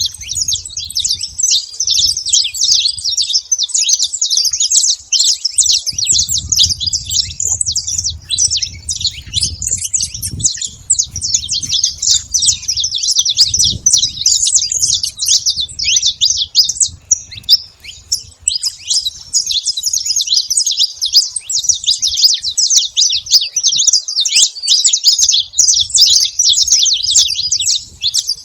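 Saffron finch singing a fast, unbroken stream of high chirps and trills.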